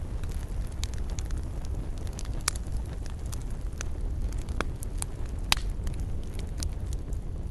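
Wood campfire crackling, with irregular sharp pops and snaps over a steady low rumble; two louder pops about two and a half and five and a half seconds in.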